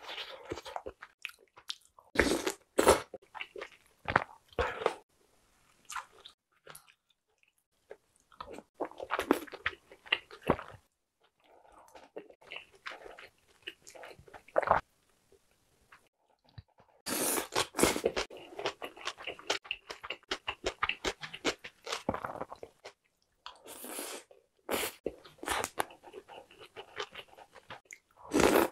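A person eating close to the microphone: chewing and biting mouthfuls of spicy jeon stew, dumplings and radish-salad bibimbap, in bursts with short pauses between. Partway through, a spoon stirs the rice in the bowl.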